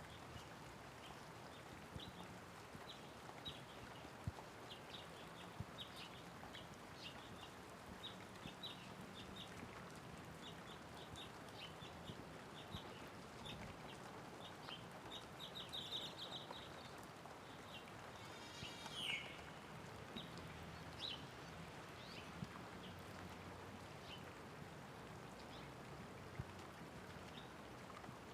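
Light rain falling steadily, with small birds chirping in short, quick high notes throughout. Just past the middle there is a brief flurry of chirps, followed by a single call that falls in pitch.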